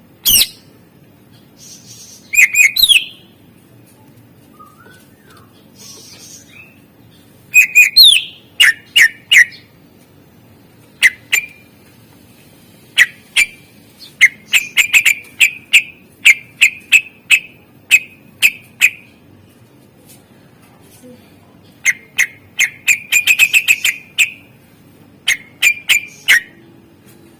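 A greater green leafbird (cucak ijo) singing a loud song full of mimicked calls. It comes in bursts of sharp, high, whistled chirps, sometimes quick runs of repeated notes, with short pauses between phrases.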